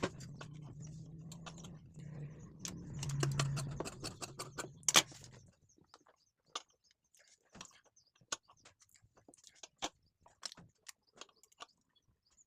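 Sewing machine stitching: a steady motor hum with rapid clicking that swells about three seconds in and stops about five and a half seconds in. Scattered light clicks follow.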